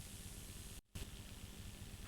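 Faint steady hiss with a low hum, the noise floor of an old recording, cut by a sudden dropout to silence for a split second just under a second in.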